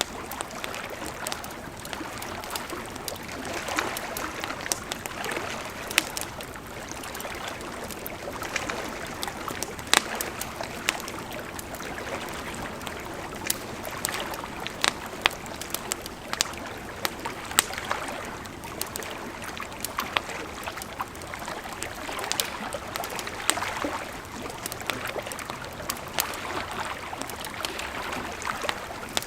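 A river flowing steadily, with sharp crackles and pops from a burning campfire scattered throughout.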